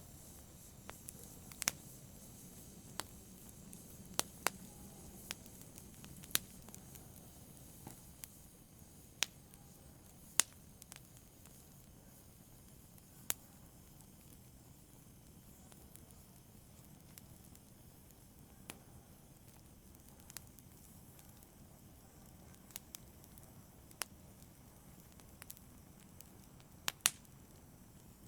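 Fire crackling softly: irregular sharp pops and snaps, a dozen or more scattered through, over a faint steady hiss, with a quick pair of pops near the end.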